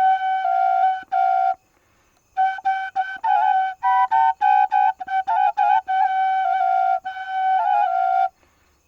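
A solo flute playing a slow melody that dwells on one note, ornamented with quick trills and turns. It breaks off for under a second about one and a half seconds in, and stops again near the end.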